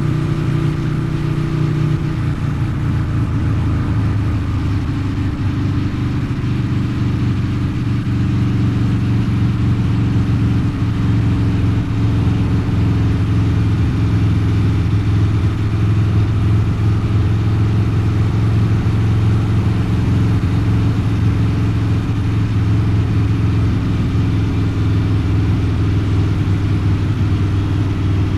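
Harley-Davidson Low Rider's 129 cubic inch V-twin running through a Two Brothers Racing exhaust at steady revs. Its note drops slightly about two seconds in, then holds even.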